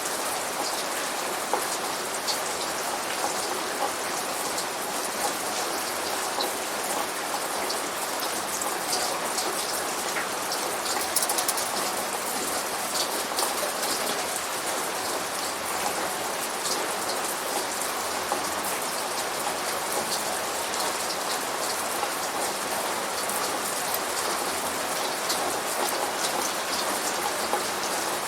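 Steady rain falling and splashing on a surface, with many small drops ticking sharply over a constant hiss.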